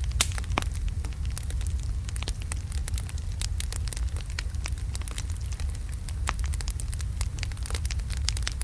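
Large wood logs burning in a fireplace: irregular sharp crackles and pops over a steady low rumble of the flames.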